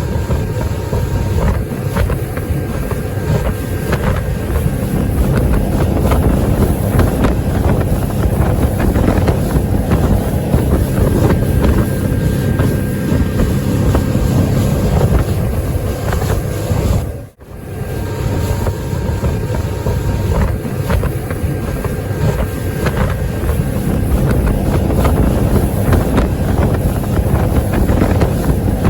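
Motorboat running fast over the sea: steady engine and water rush with wind buffeting the microphone. The sound cuts out for a moment about 17 seconds in, then carries on the same.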